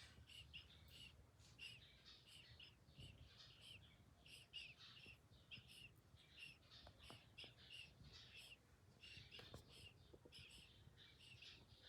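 Faint, continuous chirping of small birds: a few quick high chirps every second, with a few soft clicks.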